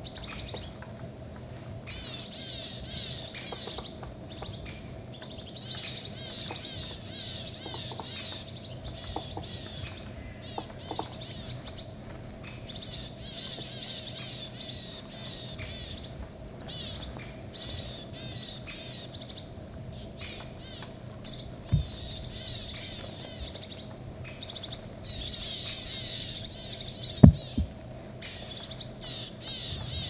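Birds twittering with high, thin, rapid calls almost without a break. Two low thumps come through, one about two-thirds of the way in and a louder one near the end.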